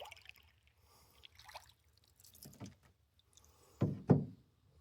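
Canoe paddle strokes: the paddle swishing through the water and dripping, then two low thumps in quick succession near the end.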